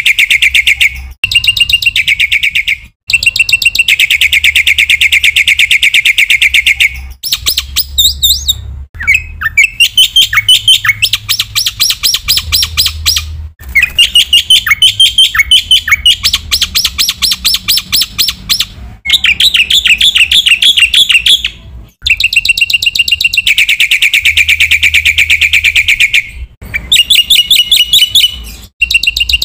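Black-winged myna (jalak putih) singing a loud, fast chattering song: long runs of rapidly repeated harsh notes and trills, with some quick swooping notes, broken by several brief pauses.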